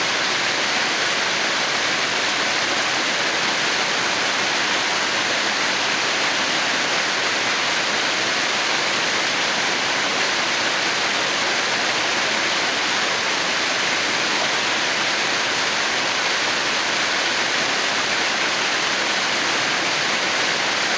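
Waterfall pouring steadily: an even, hissing rush of water with little low rumble.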